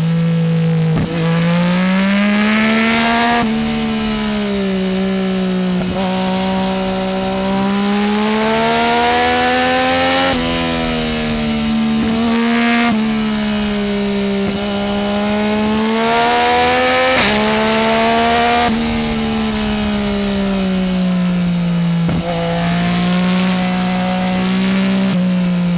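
Yamaha Tracer 900 GT's inline-three engine through a full Roads Italia aftermarket exhaust with no dB-killer, revving up and easing off again and again, with quick gear changes every few seconds that break the pitch.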